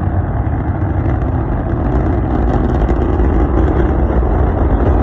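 Rocket engines firing: a loud, steady, deep roar with no change in pitch.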